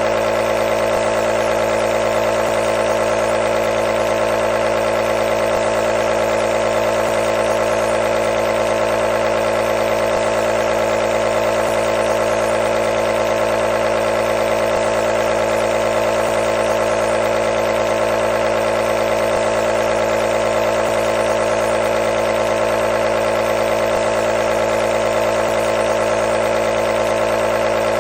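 Nebulizer's compressor motor running continuously, a steady unchanging hum with many overtones.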